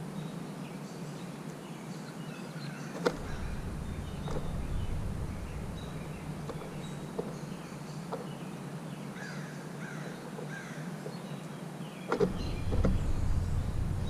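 Carolina wren hopping and pecking on a plastic tray feeder, heard through the feeder itself: a sharp knock about three seconds in and another near the end, with light taps scattered between. A low rumble comes in after each knock, and faint birds call in the background.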